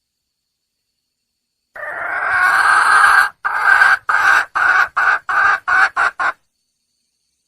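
A wild junglefowl hen calling to attract a mate: one long call that swells in loudness, then a run of about seven short calls, each shorter and quicker than the last.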